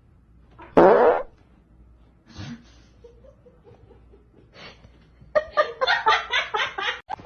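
A loud, short fart-like noise about a second in and a fainter one around two and a half seconds, then someone laughing in quick rhythmic bursts near the end.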